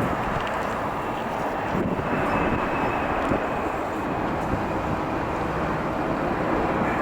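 Jet airliner engines running with a steady rush, a faint high whine coming in about two seconds in.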